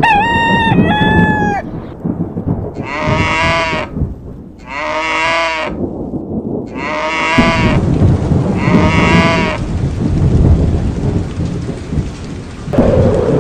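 Storm ambience of rain and rolling thunder, with an animal bleating in about five high, wavering calls during the first ten seconds. Near the end a steady humming tone starts.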